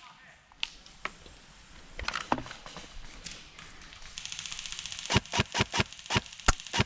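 Airsoft gun fire: a few scattered single shots at first, a buzzing one-second burst of very rapid fire about four seconds in, then a quick string of single shots at about four a second.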